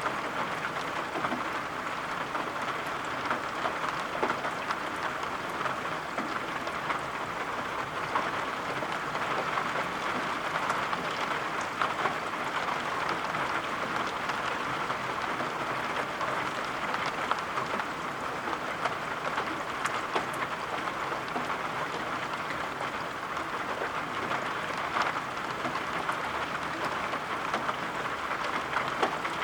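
Steady rain falling: a dense, even patter with many small drop taps.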